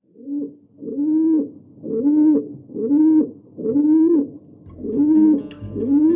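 A bird giving a repeated cooing call, about seven calls one a second, each rising and then falling in pitch.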